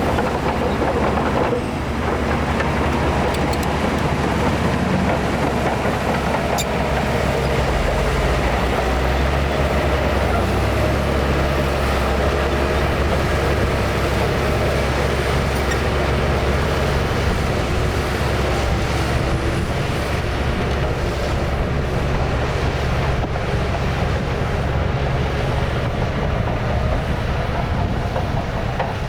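Shantui DH17C2 bulldozer's diesel engine running steadily under load with a deep rumble, growing heavier about eight seconds in.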